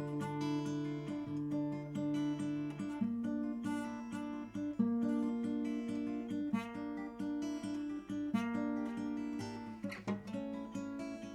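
Guitar playing an instrumental introduction: a steady run of picked notes over a bass line that changes every second or two.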